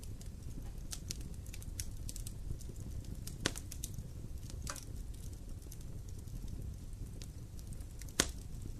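Campfire burning: a steady low rumble with irregular crackles and pops from the burning wood, the two sharpest pops about a third of the way in and near the end.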